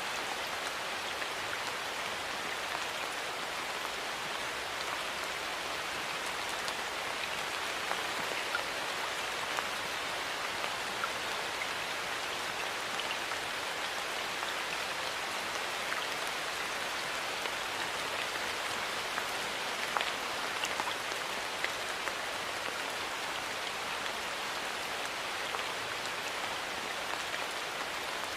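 Steady rain falling: an even hiss, with scattered individual drops ticking now and then.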